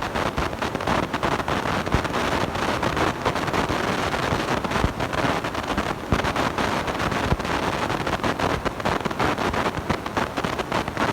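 Continuous harsh crackling and rumbling noise from a blown microphone, steady throughout with dense fine crackle.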